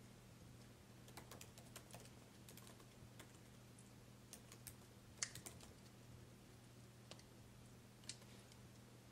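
Faint, scattered sharp clicks over a low steady hum, sparse and irregular, with the loudest click about five seconds in and another near the end.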